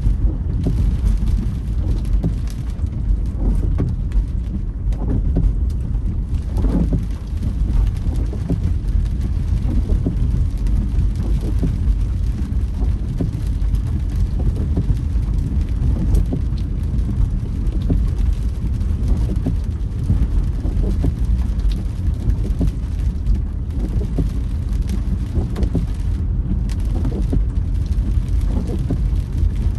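Car driving in rain: a steady low road and engine rumble, with raindrops ticking on the body and windscreen.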